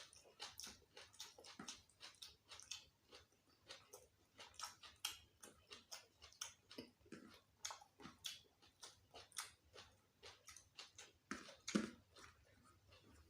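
Close-miked mouth sounds of someone eating a meal of curried beef skin and raw vegetables: soft, irregular chewing clicks and smacks, several a second, with a louder one about twelve seconds in.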